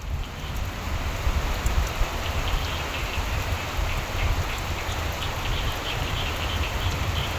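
Steady rain with a low rumble underneath, fading in at the start, and frogs croaking in short repeated calls that come more regularly near the end.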